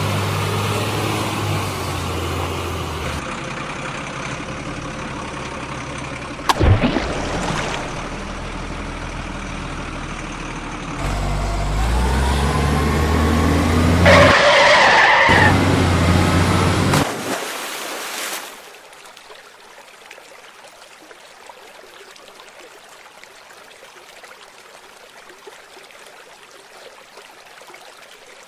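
Heavy vehicle engine running, with a sudden sharp hit about six and a half seconds in, then the engine louder with a loud screech around the middle; after that only a faint hiss.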